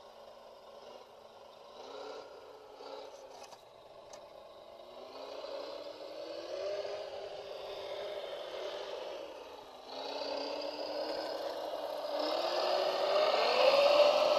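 Whine of a radio-controlled model's electric motor speeding up, its pitch rising slowly, falling briefly about ten seconds in, then climbing again, louder toward the end.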